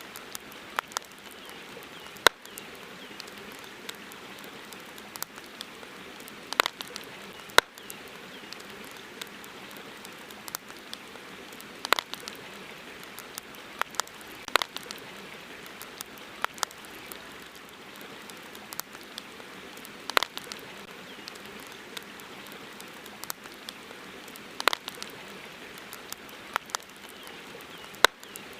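Wood campfire crackling: sharp pops and snaps at irregular intervals, a few much louder than the rest, over a steady low hiss.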